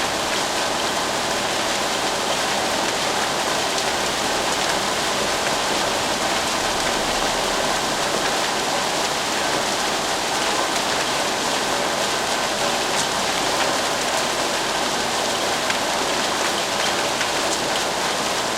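Steady rain falling, an even hiss of many drops on a surface with no lulls or thunder.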